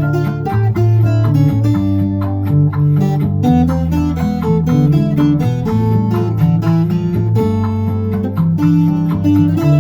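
Cuban tres, tuned B–G–D, plucked in a run of quick notes over a backing track with a strong bass line.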